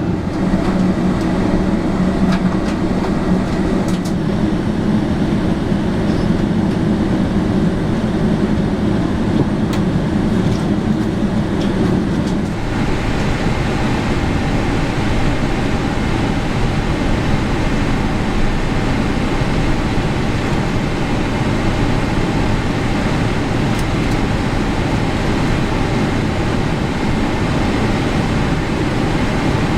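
Cabin noise inside a Boeing 777-300ER with its GE90 engines running and the airframe rumbling. About twelve seconds in, the heavy low rumble drops away and a brighter, steadier roar with a faint whine takes over.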